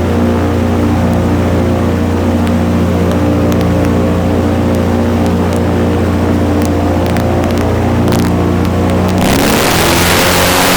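Airboat engine and propeller running steadily at speed. About nine seconds in, the engine note climbs and a loud rush of air noise comes in.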